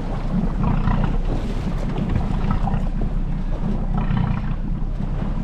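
Steady low rumble of a small fishing boat at sea.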